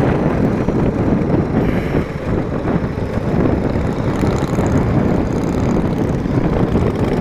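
Motorcycle engine running steadily at road speed, mixed with wind rushing over the helmet microphone.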